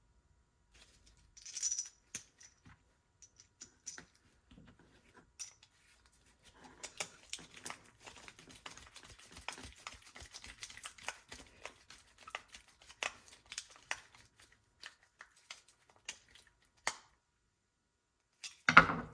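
Small metal carburetor parts from a snowblower being handled and fitted by hand: scattered light clicks and taps, a brief scrape about a second and a half in, a stretch of dense small clicking and rattling in the middle, and a louder thump near the end.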